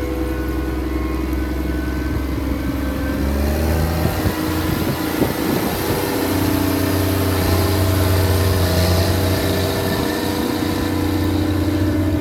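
Diesel engine of a 2003 Challenger MT765 tracked tractor running steadily. The revs rise about four to six seconds in, and it holds at a higher, louder speed after that.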